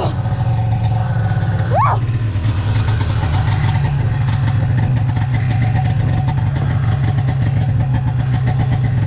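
Snowmobile engine running at a steady speed, its note holding level throughout. Two short rising squeals sound over it within the first two seconds.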